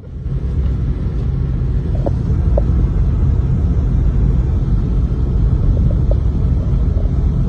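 Steady, loud low rumble with a fainter hiss above it.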